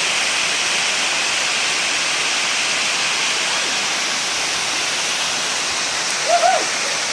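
Waterfall rushing with a steady, even roar of falling water. A short pitched call cuts in briefly about six seconds in.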